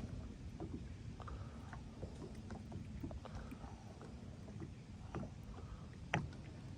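Steady low rumble of a small fishing boat on the water, with scattered light clicks and one sharper knock about six seconds in.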